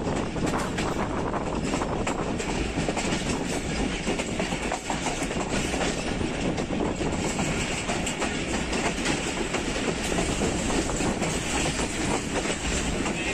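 A passenger train running, heard from an open door of the coach: a steady rumble from the wheels with a clickety-clack as they cross rail joints.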